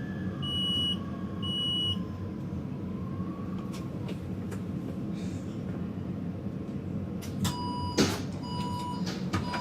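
Taipei Metro train standing at a station, its low hum steady, with two short high beeps near the start and a few clicks. From about three-quarters of the way in, a lower warning beep repeats about once a second, the door-closing signal, with one loud knock as the sliding doors shut.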